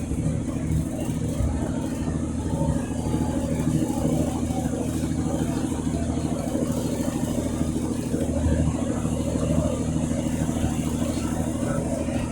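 Boat engine running at a steady speed, a continuous low hum.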